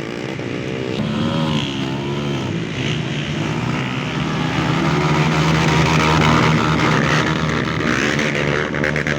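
Several off-road motorcycle engines running and revving together, their pitches rising and falling as the bikes work through mud.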